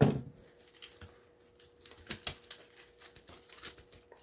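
Hand cutters snipping and cracking apart a small plastic-and-metal scrap item, a run of short sharp clicks and snaps. A faint steady hum runs underneath.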